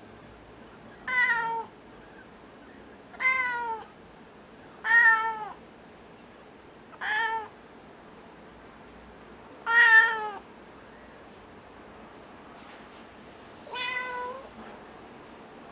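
A domestic cat meowing six times, a few seconds apart, each a drawn-out "neowwn" about half a second long that falls slightly in pitch at the end; the last meow is quieter.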